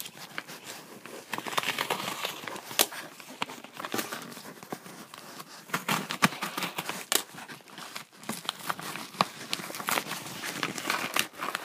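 A mailed package being opened by hand: packaging crinkling and tearing, with many sharp crackles and clicks.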